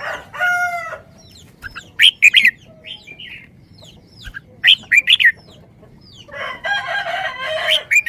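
Birds calling: a string of short, sharp calls, with a longer drawn-out call about half a second in and another from about six to eight seconds in.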